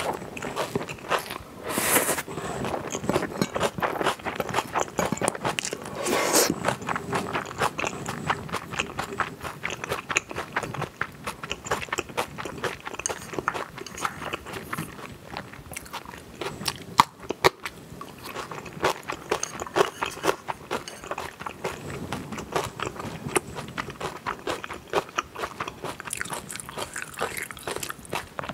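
Close-miked eating sounds: a mouthful of food being chewed, with many small wet mouth clicks. Two brief louder noises come about two and six seconds in.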